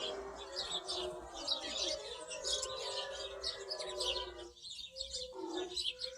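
Small birds chirping continuously, many short overlapping chirps.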